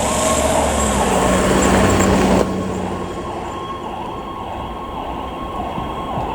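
Fire truck responding with its siren going: a loud, noisy pass with a steady low horn-like tone for the first two seconds or so, then an abrupt change to a siren wailing up and down.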